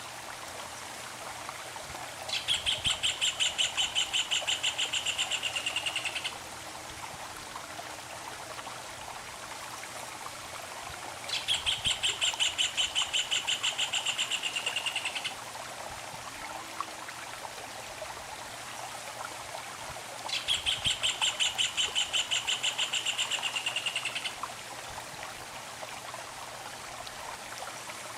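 A songbird sings three times, each a rapid trill of repeated notes lasting about four seconds, the songs spaced evenly apart. Underneath, a stream runs steadily.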